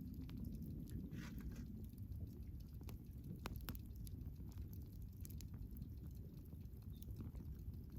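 Wood campfire crackling: frequent sharp, irregular pops and snaps over a low steady rumble, with a short hiss about a second in.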